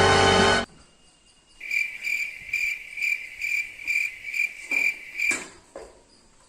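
Background music cuts off, then a cricket chirps steadily, about two to three chirps a second, for several seconds before stopping.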